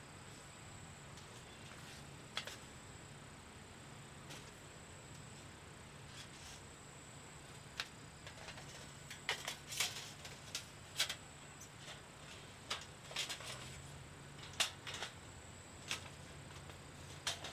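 Wood fire crackling, with irregular sharp pops that come thickest in the middle stretch.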